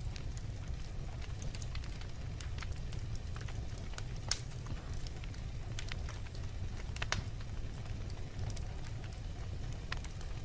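Wood fire burning in a fireplace, crackling with scattered sharp pops over a steady low rumble. The loudest snaps come a little past four seconds and about seven seconds in.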